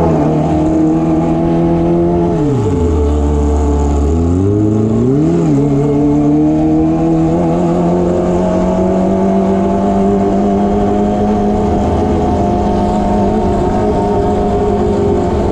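Kawasaki ZX25R inline-four engine running through an SC Project aftermarket exhaust while riding. The revs drop sharply about two and a half seconds in, pick back up about two seconds later, then hold steady and slowly climb.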